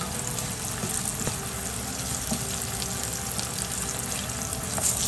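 Sliced vegetables frying in hot oil in a pan: steady sizzling with small scattered crackles.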